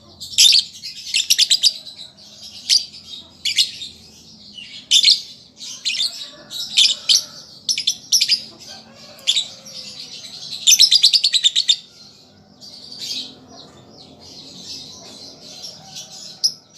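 Young lovebird chirping in high-pitched bursts and rapid trills, one after another, the learning chatter of a juvenile bird starting to sing. A long, fast trill comes about two-thirds of the way in.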